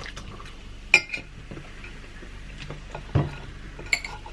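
Tableware clinking during a meal: a sharp clink about a second in, a duller knock a couple of seconds later, and another ringing clink near the end.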